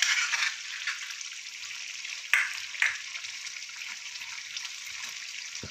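Chicken sizzling in its own oil and freshly added butter in a wok: a steady sizzle, with a spatula scraping through it twice about two and a half seconds in.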